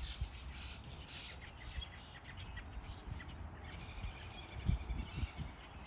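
A chorus of small songbirds chirping and twittering, with a fast run of repeated notes about four seconds in, over a low rumble.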